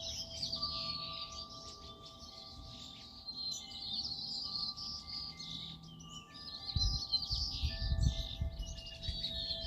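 Several small birds chirping and twittering busily and without pause. Soft held tones sound underneath, and there is a brief low rumble about seven seconds in.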